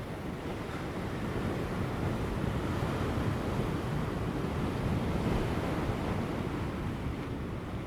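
Large ocean waves breaking on offshore rocks: a continuous wash of surf that swells louder from about a second in and eases slightly near the end, with light wind.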